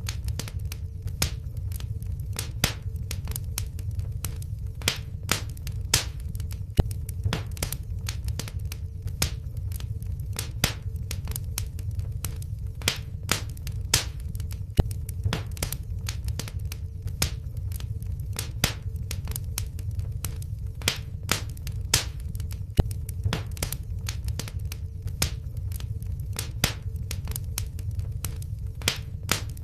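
Wood fire in a fireplace crackling, an added fire sound effect: sharp pops and snaps at irregular intervals, several a second at times, over a low steady rumble of the flames and a faint steady hum.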